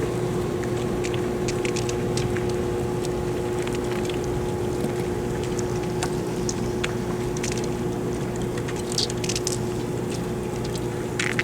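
A motor humming at one steady pitch over a constant rushing noise, with scattered light clicks.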